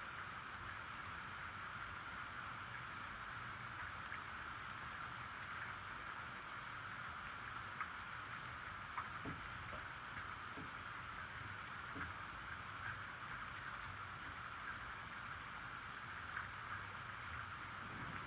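Steady water noise, a continuous hiss, with a few faint ticks and taps scattered through the middle.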